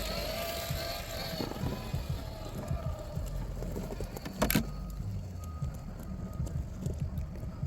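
Electric motor and gear drivetrain of an Axial SCX6 RC crawler truck running. A steady whine fades out about a second and a half in, leaving uneven rumbling and small knocks, with one sharp click about four and a half seconds in.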